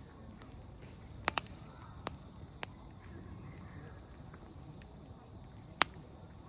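Wood campfire crackling: scattered sharp pops of burning firewood over a low steady noise of the fire. The loudest pops come as a quick pair a little over a second in and as a single pop near the end.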